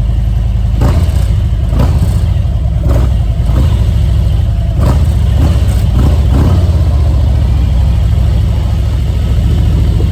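Harley-Davidson Road Glide's V-twin engine rumbling steadily under way, with wind noise and short rushing sounds every second or so.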